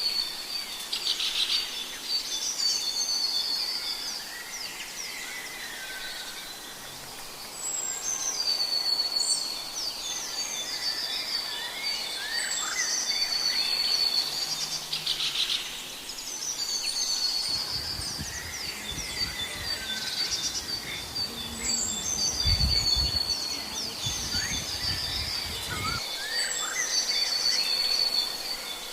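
Several birds chirping and singing over one another, with a high trilling phrase repeated every few seconds. A low rumble comes in for several seconds in the second half.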